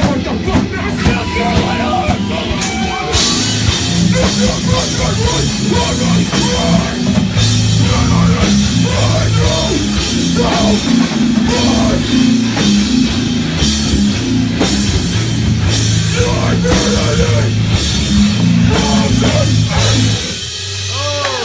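A live hardcore punk band plays loudly: distorted guitars, bass and a drum kit with crashing cymbals. The music drops out near the end.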